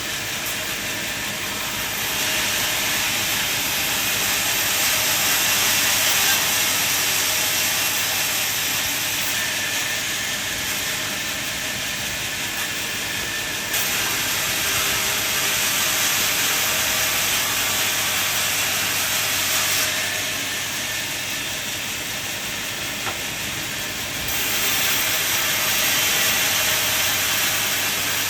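Sawmill saw cutting through wood: a steady hissing noise that steps abruptly louder and quieter for long stretches.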